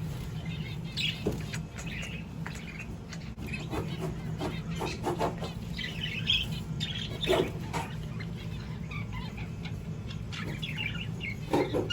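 Budgerigars (parakeets) chirping in quick, irregular chirps over a steady low hum.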